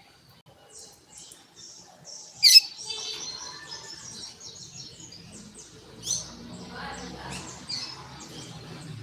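Double-collared seedeater (coleiro) singing its tui-tui song: a fast run of short, high notes. A sharp, loud note comes about two and a half seconds in, and another about six seconds in.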